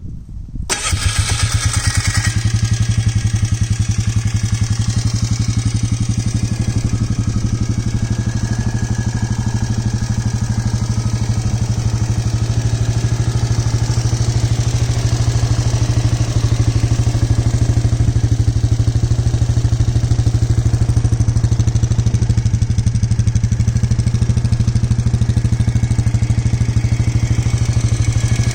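An already-warm engine catches about a second in, then settles into a steady idle with an even pulse.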